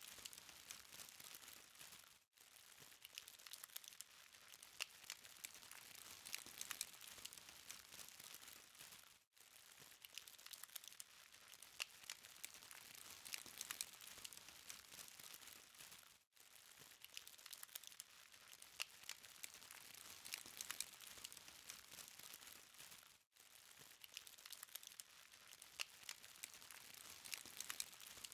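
BBQ charcoal fire crackling faintly, a dense patter of small high-pitched ticks and pops. The crackle drops out briefly about every seven seconds.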